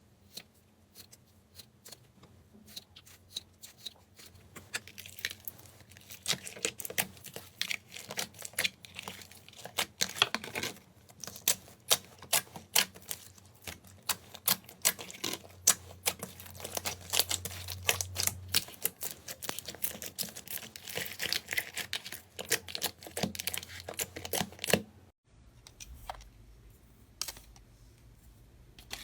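Slime being squeezed and worked by hand, giving irregular rapid small crackles, clicks and pops; the sound breaks off abruptly and changes character near the end.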